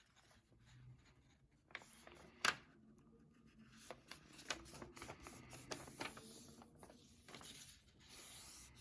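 A sheet of white computer paper being folded in half and creased: faint, scattered rustling and crinkling, with one sharper crackle about two and a half seconds in.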